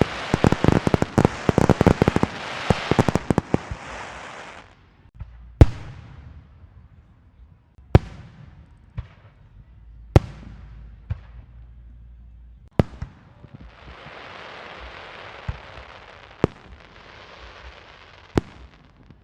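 A string of firecrackers popping in rapid succession for about four and a half seconds, then single firework bangs every two seconds or so, each with a fading echo, and a stretch of hissing crackle between the later bangs.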